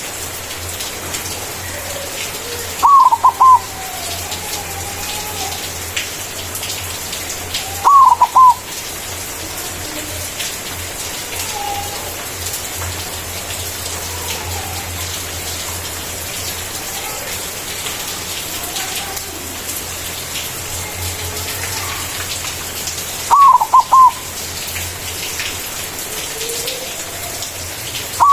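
White zebra dove (perkutut putih) singing its full cooing song: a loud phrase of three or four quick notes about three seconds in, another about eight seconds in, a third near the end, and the start of a fourth right at the close, with faint softer calls in between.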